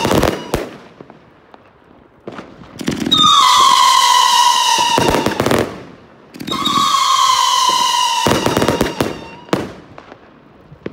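A 108-shot compound fireworks cake firing. Twice a long whistle sounds for about two and a half seconds, its pitch sliding slightly down, and each whistle ends in a cluster of bangs and crackling from the bursts. There is a further bang right at the start and quieter gaps between volleys.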